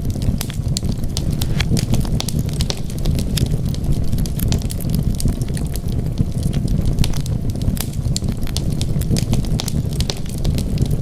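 Wood fire burning in a fireplace: a steady low rumble of flames with many irregular, sharp crackles and pops.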